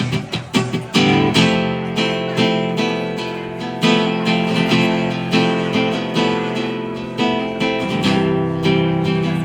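Acoustic guitar strumming chords in an instrumental passage between sung verses, with a few quick single-note attacks about a second in, then steady strums roughly once a second.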